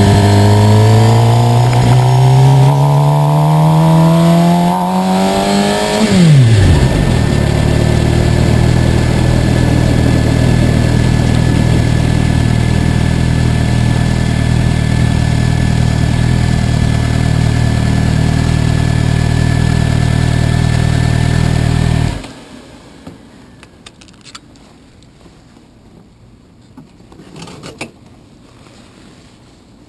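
Suzuki motorcycle engine revving up with a rising pitch for about six seconds, then dropping sharply as the throttle closes and running steadily at low revs. About two-thirds of the way through it is switched off and cuts out suddenly, leaving a few faint knocks and rustles.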